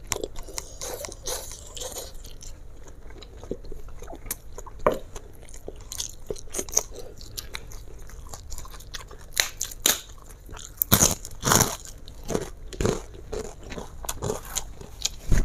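Close-miked chewing of a mouthful of fried flat rice noodles (kwetiau): a run of wet mouth clicks and lip smacks, with a few sharper clicks about eleven seconds in.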